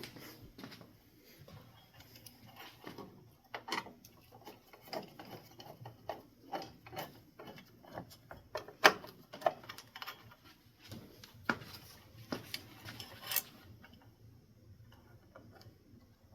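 Irregular small clicks, taps and clinks of ceiling-fan mounting hardware and screws being handled, with a sharper knock just under nine seconds in.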